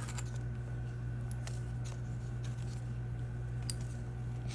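A steady low hum with a few faint, scattered clicks from handling fly-tying materials at the vise.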